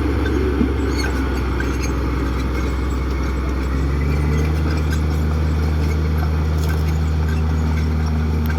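Komatsu D58 crawler bulldozer's diesel engine running steadily, its low tone shifting about four seconds in as the engine changes speed or load.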